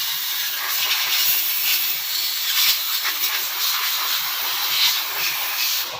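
Compressed air hissing from an air blow gun in steady, slightly fluctuating gusts, cut off suddenly at the end.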